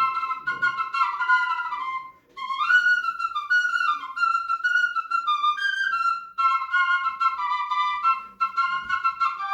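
Russian paired svirel, a double duct flute with its two pipes glued together, playing a folk-style tune in two voices at once. The melody moves in short notes with brief breaths about two seconds in and again after about six seconds.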